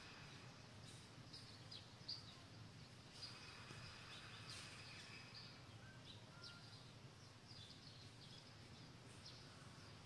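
Faint bird chirps, short high calls recurring every second or so, over a low steady background hum.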